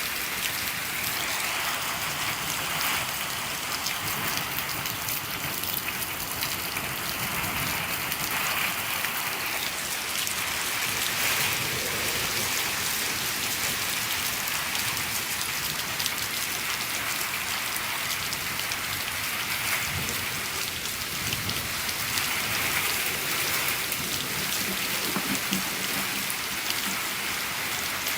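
Steady rain falling on a shed, a dense, even ticking of drops with most of the sound in the higher range.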